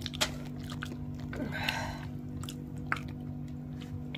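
A person chewing and biting cooked turkey meat, with scattered short mouth clicks, over a steady low hum.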